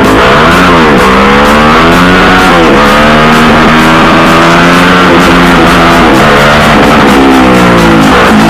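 Motorcycle engine held at high revs, its pitch dipping and climbing back up several times, over loud music with a steady beat.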